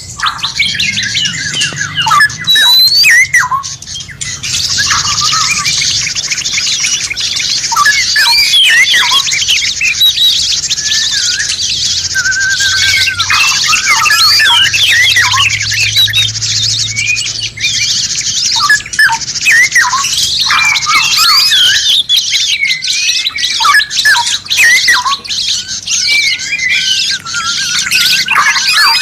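Several songbirds calling at once in a dense, overlapping mix of quick whistles, chirps and squawks, over a steady high hiss for most of the stretch. This is the kind of mixed songbird recording used to teach cage birds new songs.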